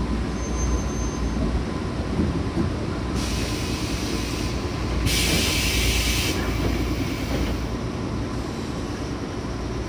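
Running noise of a JR West 105 series electric train heard from inside the carriage: a steady low rumble of wheels and motors, with a loud high hiss that comes in about three seconds in and dies away about four seconds later.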